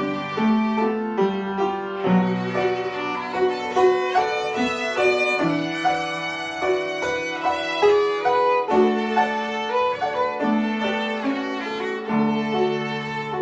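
Violin playing a slow melody of held, bowed notes, over an accompaniment of sustained lower notes.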